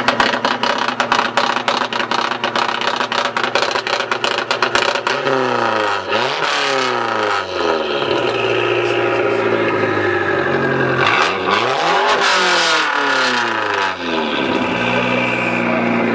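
Built Dodge SRT-4's turbocharged 2.4-litre four-cylinder through a 3-inch turbo-back exhaust, running at a fast, choppy idle for the first few seconds. Then it is revved, the pitch rising and falling back in several sweeps, the biggest about twelve seconds in.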